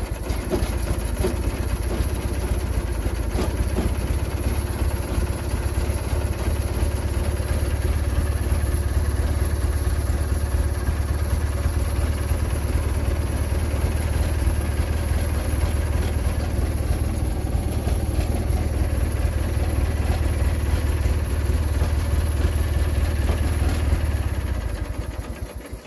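Husqvarna GT garden tractor's twin-cylinder engine running steadily, just fired up on a cold start after sitting over winter, then shut off near the end.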